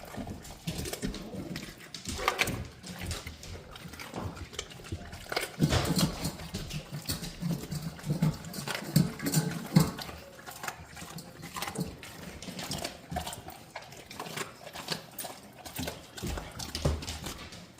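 Mastiff puppy eating a raw meal: wet chewing and crunching of raw meat and bone, a string of irregular crunches that are loudest about six to ten seconds in.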